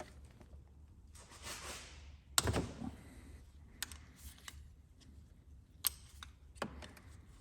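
Hand tools and loose parts being handled during engine work: a brief scraping rustle, then one loud knock with a short clatter, followed by a few scattered sharp clicks.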